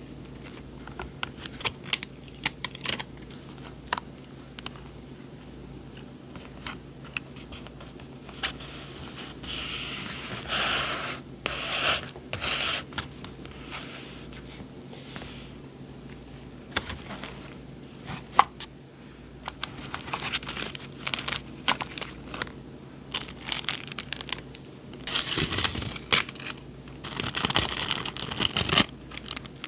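Paper and paper packaging being handled close up: crinkling and tearing with many light taps and clicks, and louder spells of rustling about ten seconds in and again near the end.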